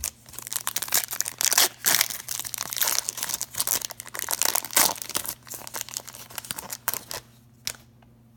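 Foil trading-card pack wrapper being torn open and crinkled in the hands: a dense run of sharp crackles that dies away about seven seconds in, with a last crinkle or two near the end.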